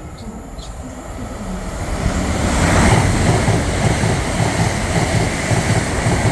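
Avanti West Coast Class 807 electric train passing through the station at speed. The rush of wheels on rail and air builds over about the first two seconds, then stays loud and steady with a rhythmic low rumble.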